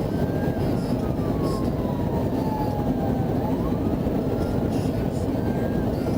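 Florida Highway Patrol car's siren wailing, sliding slowly down in pitch and back up about every three seconds, over a loud, steady rumble of road and engine noise from the moving patrol car.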